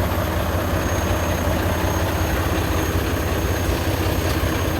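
Semi-truck's diesel engine idling with a steady low rumble.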